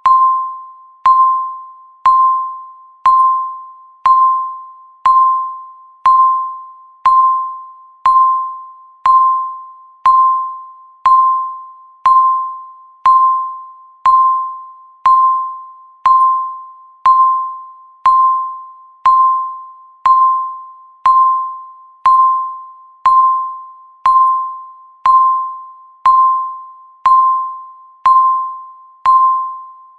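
Countdown timer's ticking sound, once a second: each tick is a sharp, bell-like tone that fades within the second, marking the seconds counting down.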